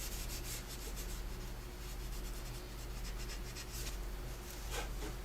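A paper tortillon (blending stump) rubbing graphite across drawing paper in quick repeated strokes, blending and pulling the pencil shading.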